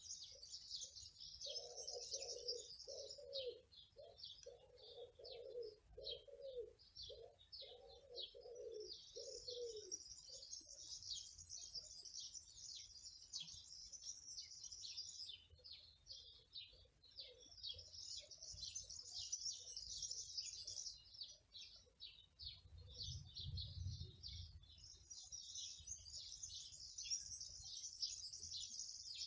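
Small songbirds singing long, high twittering phrases of several seconds each, over and over. During the first ten seconds a dove coos a run of low notes in steady rhythm.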